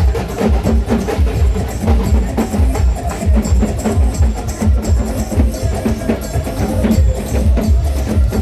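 Loud drum-led music with a fast, steady beat of deep drum strokes under dense percussion.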